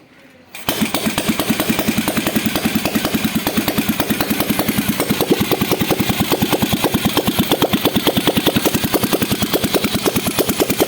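Royal Enfield Bullet 350's single-cylinder engine, kick-started, catches about a second in and runs with a steady, even beat. This is the engine's first start after a rebuild.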